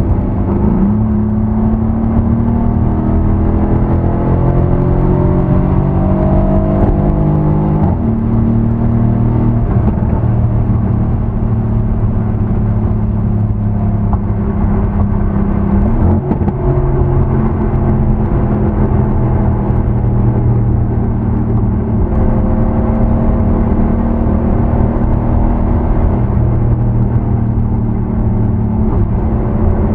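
Mercedes-AMG C63 S (W205) twin-turbo V8 on its stock exhaust, running under way: the engine note climbs slowly and changes abruptly at gear changes about eight and sixteen seconds in, then climbs again near the end.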